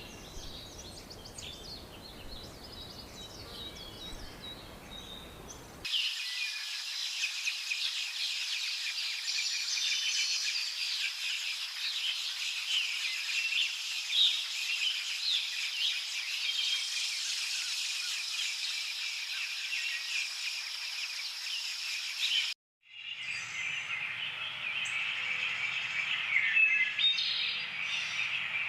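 Many small birds chirping and twittering together in a dense chorus. About six seconds in, the sound cuts abruptly to a louder, busier chorus and the low rumble beneath drops away. A little over twenty seconds in, it cuts out for a moment and another stretch of bird chirping follows.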